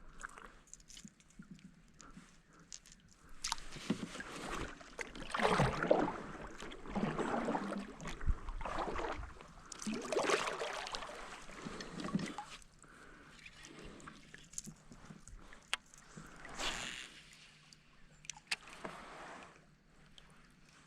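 Water sloshing and splashing against a kayak, in irregular surges with scattered knocks and clicks, loudest in the first half.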